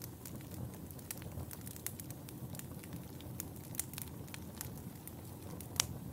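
Wood fire crackling in a fireplace: irregular sharp pops and snaps over a steady low rumble of the flames, with one louder pop near the end.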